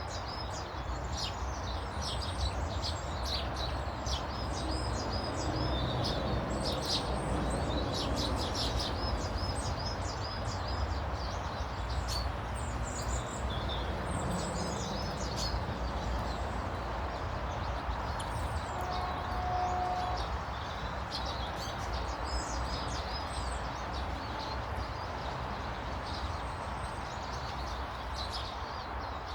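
Several small birds chirping and twittering in quick, overlapping calls, over a steady low background rumble.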